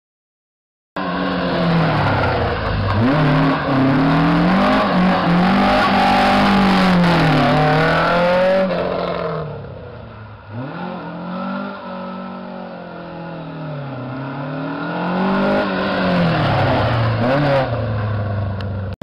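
Rally-spec 2.0-litre Ford Pinto four-cylinder engine on 45 carburettors in a Mk2 Escort rally car, its revs rising and falling over and over. It starts abruptly about a second in, drops quieter for several seconds past the middle, then builds louder again near the end.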